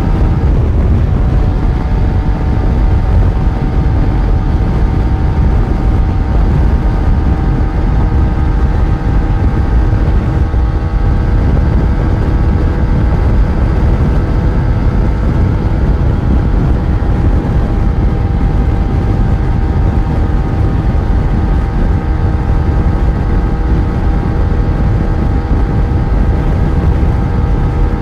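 Yamaha FZ1's inline-four engine running at a steady speed while the motorcycle is ridden. The engine note holds steady under a heavy low rumble of wind and road noise.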